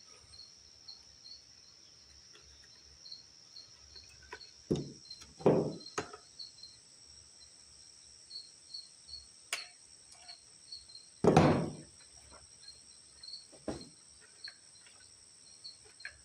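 Scattered small clicks and a few louder knocks of hands working a hose clamp onto a generator's fuel line. Crickets chirp steadily in the background, about three chirps a second.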